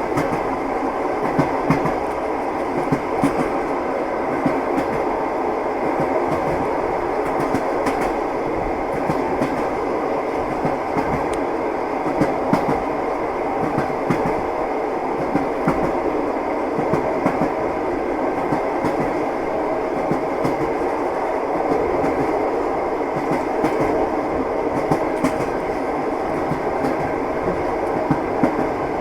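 Train wheels clattering along the rails: a steady rumble with repeated sharp clacks as the wheels cross the rail joints.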